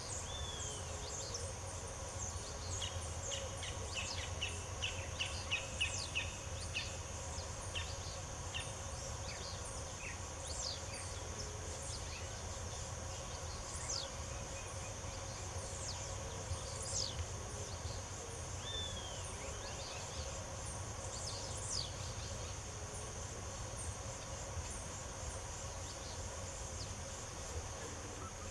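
Several birds chirping and singing in short, quick calls, with some clusters of rapid notes, over a steady high insect drone and a low background rumble.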